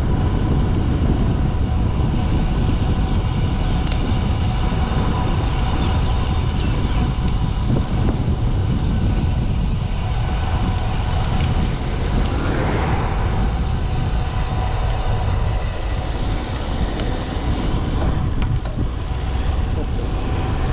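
Wind buffeting the microphone of a bicycle going fast downhill, a steady loud rumble with a little rushing hiss, swelling briefly about halfway through.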